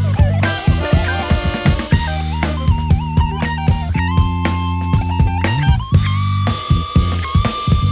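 A jazz octet playing live: drums keep a steady beat under a bass line, while a lead instrument holds long notes that bend in pitch.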